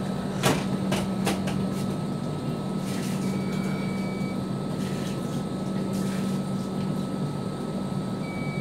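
Steady running noise of a passenger train, heard from an open door or window of the moving coach: wheels rumbling on the rails, with a few sharp clacks over rail joints in the first second or so. A thin high beep lasting about a second sounds twice, several seconds apart.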